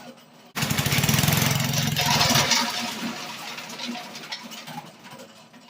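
Mackissic Mighty Mac wood chipper's small gas engine starting abruptly about half a second in and running loud for about two seconds, then losing speed and fading as it dies. It is stalling because the chipper is jammed, not because of the choke.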